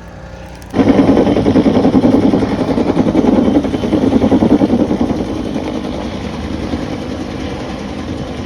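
An engine running loudly, coming in suddenly under a second in, with a rough fluttering sound, then easing to a lower steady level over the last few seconds.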